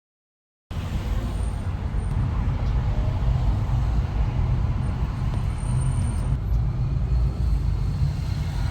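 Steady low rumble of road traffic, cutting in abruptly under a second in.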